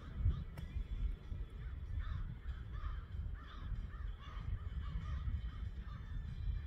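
Birds calling over and over in short calls, over a low rumble.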